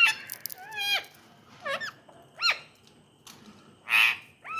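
Ringneck parrot giving short squeaky calls, each rising then falling in pitch, about one a second, with one short harsh, noisy squawk about four seconds in.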